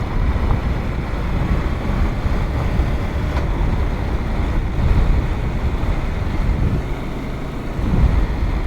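Motorcycle riding along a dirt road: steady engine and road rumble, with wind buffeting the microphone.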